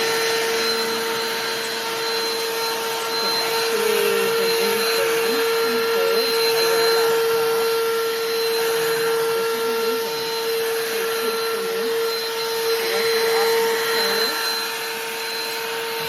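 Black+Decker 20V Dustbuster cordless handheld vacuum running steadily: a high, even motor whine over the rush of air.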